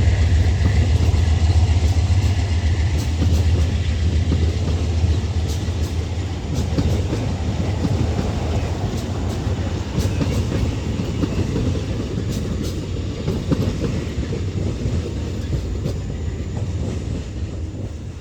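A train passing close by: a strong low engine hum in the first few seconds, then railcars rolling past with a steady rumble and repeated wheel clicks over the rail joints, slowly fading near the end.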